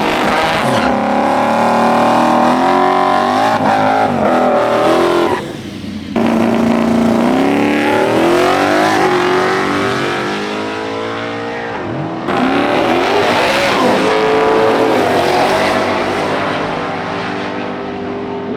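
Twin-turbocharged Ford Mustang GT V8 running hard, its pitch climbing under acceleration and dropping back again several times. Sudden breaks about five and twelve seconds in mark cuts between takes.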